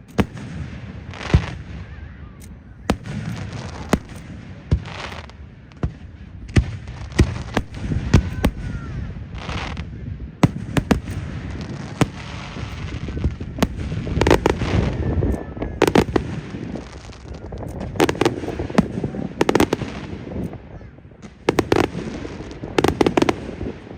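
Aerial fireworks bursting in a display: a steady run of sharp bangs, some followed by trailing crackles, with rapid crackling salvos in the second half.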